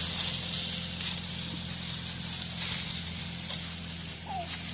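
Tractor engine running steadily at an even pitch, with wind rushing across the microphone.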